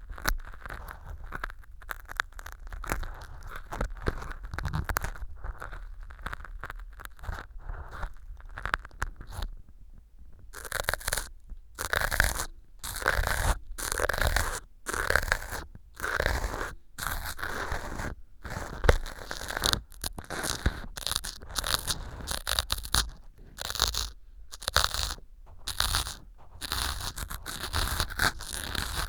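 Ear pick scraping and crunching through small pieces of dry floral foam set as fake earwax in an ear model, close on a binaural microphone. Soft, dense scratching at first, then from about ten seconds in louder, separate crunchy strokes, roughly one or two a second.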